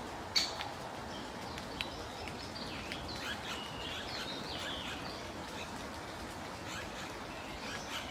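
Small birds chirping with short, high calls over a steady outdoor hiss, with one sharp knock about half a second in.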